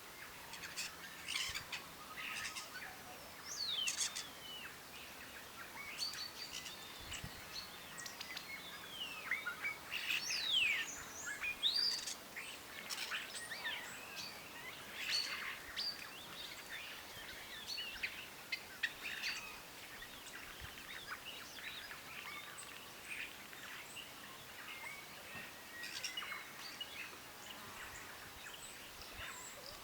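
Several birds chirping and calling together in a busy chorus of short calls and quick falling whistles, thinning out somewhat in the last third.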